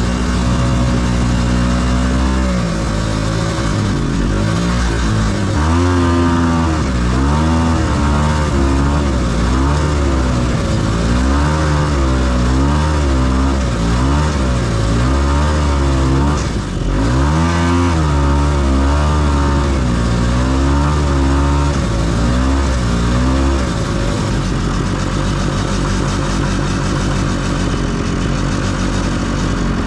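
277cc two-stroke snowmobile engine running under load while pulling a trail drag through snow, its pitch rising and falling over and over as the throttle is worked, then settling to a steadier, lower pitch near the end.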